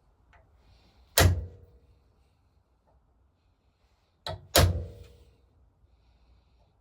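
Hammer striking a hand centre punch into metal to mark hole centres for drilling. One sharp ringing blow comes about a second in, then a light tap followed at once by a second heavy blow about four and a half seconds in.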